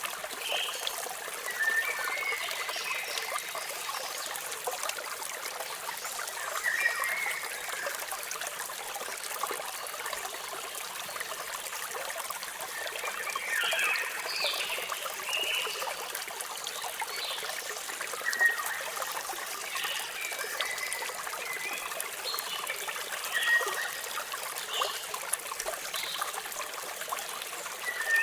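Falling water splashing and trickling steadily, with birds giving short chirps every few seconds.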